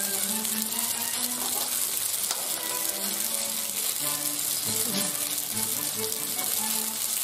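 Penne and chicken sizzling in a frying pan as a wooden spoon stirs them, a steady hiss, over background music of short melodic notes.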